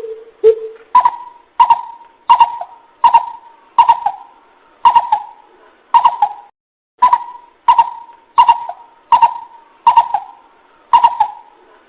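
Coucal calls from a lure recording: a loud series of hollow hooting notes, a little over one a second, with a brief pause about halfway through.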